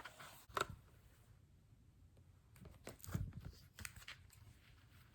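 Handling noise of a book being moved: soft rustles and clicks at the start, then more rustling with a dull thump about three seconds in.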